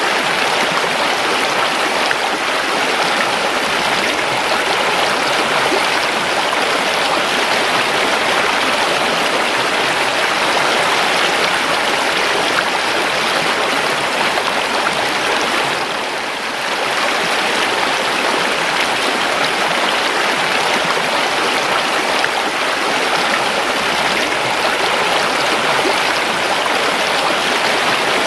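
A river's water flowing and rushing steadily over stones, with a brief dip in loudness a little past halfway.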